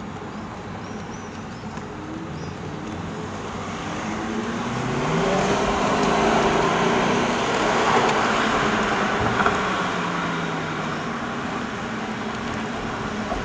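Porsche 918 Spyder's V8 accelerating hard, its pitch rising through several gears one after another. It is loudest in the middle, under an overpass, then eases off.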